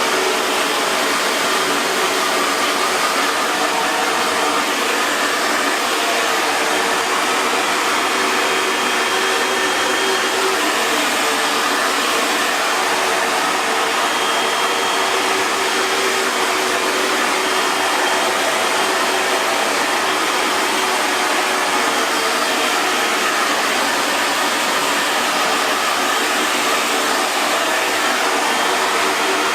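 Hair dryer blowing steadily: a constant rush of air over a faint motor hum, with no change in speed.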